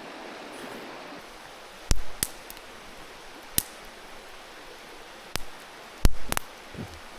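A handful of sharp, irregular clicks and knocks, the loudest about two seconds and six seconds in, over the steady rushing hiss of a mountain stream.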